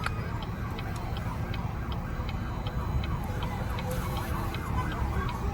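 Truck engine rumbling low at a crawl, with a steady ticking about three times a second and a faint wavering siren-like tone in the background.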